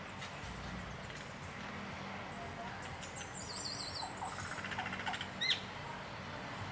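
Birds calling over a steady background hiss. About three seconds in comes a quick wavering high trill with a few short lower calls, and near the end a short, sharp rising chirp, the loudest sound.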